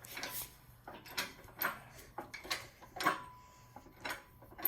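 Irregular metallic clinks and knocks from the engine hoist and its chain as the lifted Chevy engine is wheeled around, about ten sharp hits in a few seconds.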